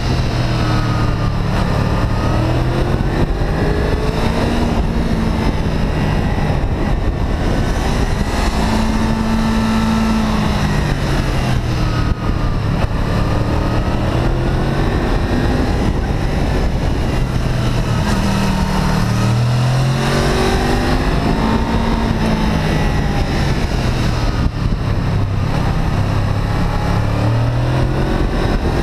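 Honda VFR800 V-Tec's V4 engine running under way, its note rising and falling several times as the throttle is opened and eased, over a steady rush of wind and road noise.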